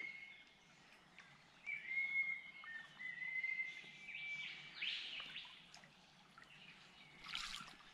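Wild birds calling: short whistled notes and quick rising calls, scattered through, over the faint rush of a shallow stream riffle. A brief rustle near the end.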